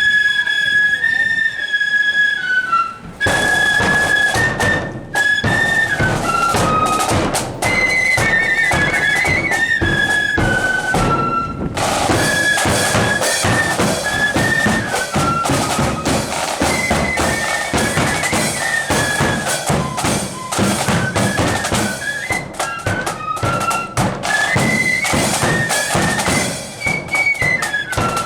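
Marching flute band playing a tune: the flutes play the melody alone at first, then snare and bass drums join about three seconds in. The band breaks off briefly partway through and starts up again.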